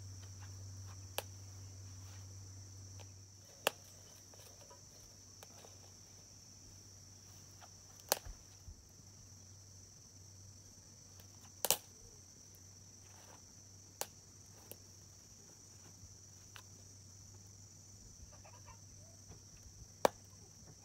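Steady high-pitched drone of insects, with a handful of sharp snaps or clicks every few seconds and faint clucking of chickens. A low hum fades out about three seconds in.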